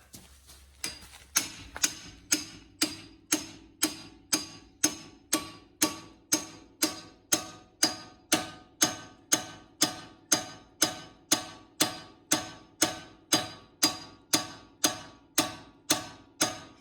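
A steel hammer striking a ball joint separator fork about twice a second in an even rhythm, each blow ringing, driving the fork in to pop a suspension ball joint loose.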